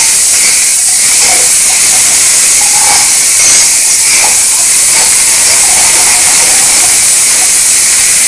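Onion-tomato masala sizzling in hot ghee in a kadhai, a loud, even hiss, stirred now and then with a spatula; the tadka is being fried until the ghee separates.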